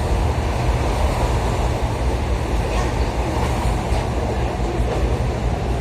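Steady rumble of a moving passenger train heard from inside the carriage: wheels on the rails and the running noise of the car.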